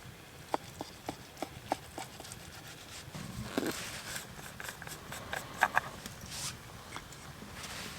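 A run of light, evenly spaced clicks and taps, then a short scraping rustle, then two sharper clicks.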